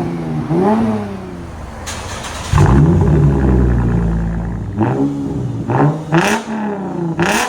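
Lexus RC 350 F-Sport's 3.5-litre V6 revved through its exhaust in quick blips, the pitch rising and falling each time. About two and a half seconds in comes a longer, louder rev that holds and then winds down. Toward the end there are a few sharp cracks between blips.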